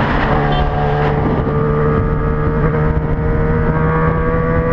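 Yamaha XJ6N's 600cc inline-four engine running steadily while the bike is ridden, its revs creeping slightly upward.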